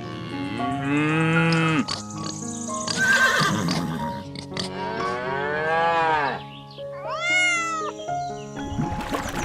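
Farm animal calls, a series of rising-and-falling cries, over background music with held notes.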